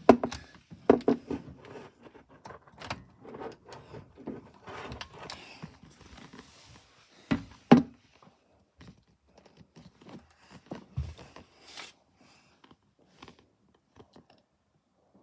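Irregular knocks, clicks and thuds in a small room, with a pair of sharper thumps about seven and a half seconds in; the sounds thin out near the end.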